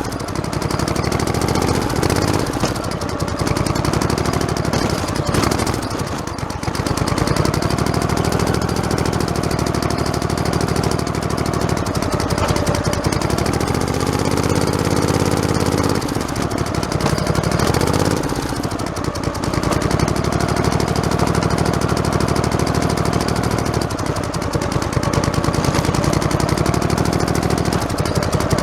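Modified lawn tractor's small engine running as it drives, its pitch sagging and picking up again every few seconds.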